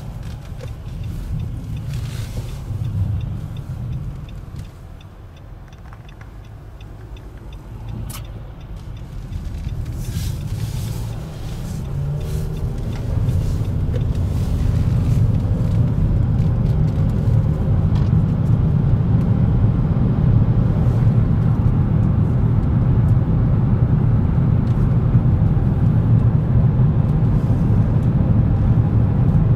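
Car running with a low rumble that grows louder about twelve seconds in and then holds steady, with a few brief clicks early on.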